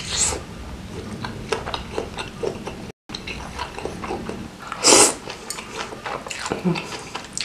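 Close-miked chewing of a beef tendon meatball, with wet mouth clicks and smacks. There is a brief cut to dead silence about three seconds in, then a loud slurp of noodles just before the five-second mark.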